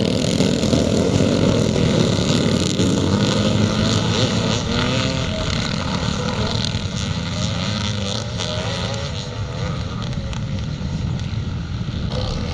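A pack of classic motocross bikes racing away just after the start, many engines revving and changing pitch over one another. The sound fades a little as the pack moves off.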